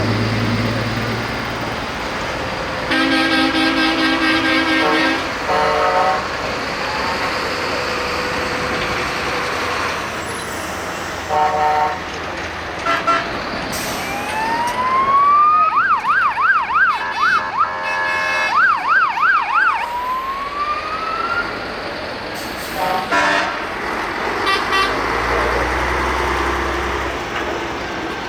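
Parade trucks sounding their air horns: a long chord blast, then several short toots. Midway a fire engine's siren rises into a wail, switches to a rapid yelp twice with a horn blast between, then rises again, over the steady running of the passing trucks' diesel engines.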